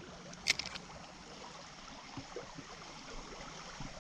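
Small mountain stream running faintly, with one short, sharp click about half a second in.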